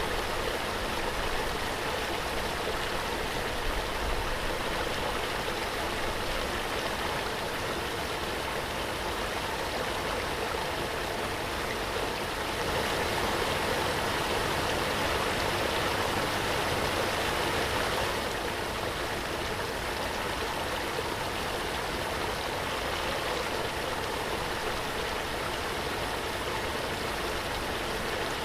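Waterfall: steady rush of falling water, swelling slightly louder for a few seconds near the middle.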